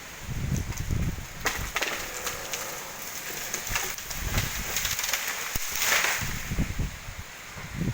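Strong wind gusting and buffeting the microphone, with rustling leaves and a few sharp cracks or snaps from wood about a second and a half in. A louder rush of wind comes near the end.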